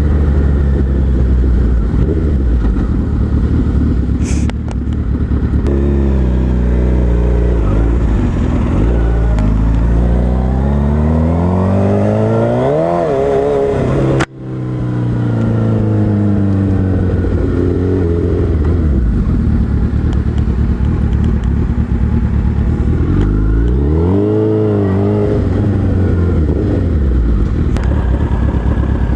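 Suzuki Hayabusa's inline-four engine under way, its revs climbing steeply through the first half before a sudden break in the sound about halfway. The engine then picks up again and revs up and back down once more near the end.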